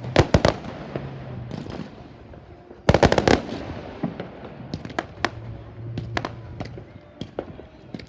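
Fireworks going off: scattered sharp bangs and pops, with a dense rapid volley of cracks about three seconds in.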